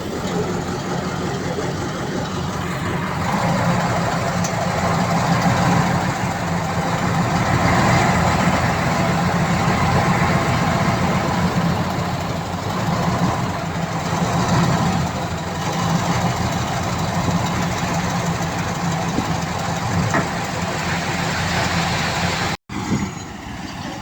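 Heavy diesel earthmoving machinery running steadily, growing louder about three to four seconds in, with a brief sudden break near the end.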